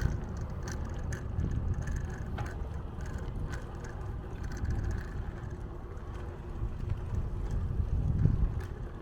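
Bicycle ride: a steady low rumble of wind on the microphone and tyre noise, with irregular clicks and rattles from the bike over the road surface.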